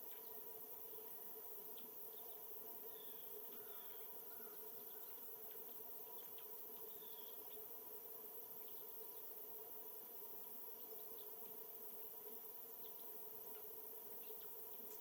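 Faint outdoor ambience: scattered short, high bird chirps over a steady low hum.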